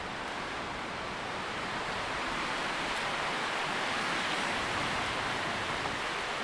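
Wind blowing through tree leaves, a steady rustling hiss that swells gently in the middle and eases again.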